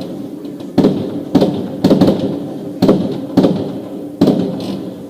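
Fireworks bursting: about six sharp bangs in a row, half a second to a second apart, each trailing off in an echoing rumble.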